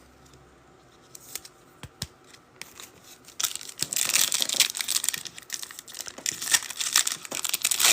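Trading card pack wrapper being torn open and crinkled by hand: a few faint clicks, then from about three and a half seconds in a dense run of crackling and tearing.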